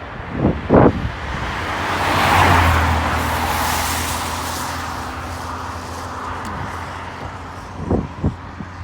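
Jet airliner engine noise swelling to a peak about two and a half seconds in, then slowly fading, with a low steady hum under it. Gusts of wind thump on the microphone near the start and near the end.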